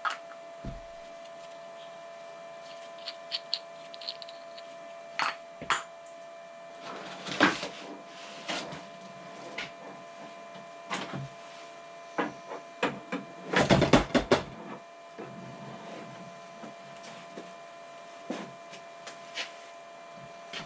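Steady whir of the Kress 60 V battery charger's internal cooling fan while the batteries charge, with scattered knocks and rattles of parts being handled; the loudest clatter comes about 14 seconds in.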